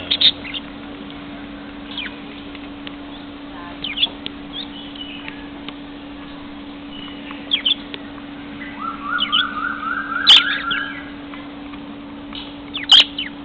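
Lovebirds giving short, sharp chirps every few seconds, with a quick series of rising warbled notes a little past the middle. A steady low hum runs underneath.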